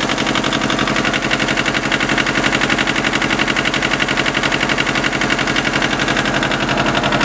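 Yanmar tractor's 18-horsepower two-cylinder diesel engine running steadily with an even, rapid pulsing beat.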